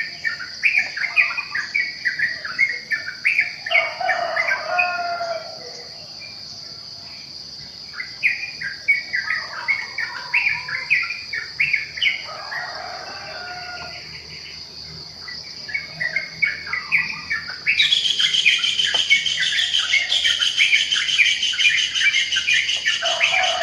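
Wild birds chirping and singing in bouts over a steady high insect drone. About three-quarters of the way in, a louder, rapidly pulsing insect buzz joins in and runs on.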